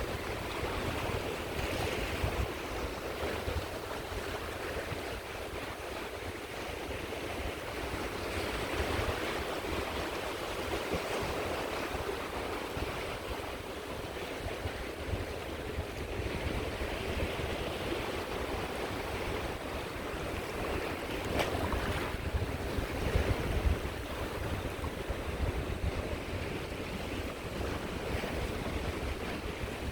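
Sea waves breaking and washing up a beach, swelling and easing every few seconds, with wind buffeting the microphone.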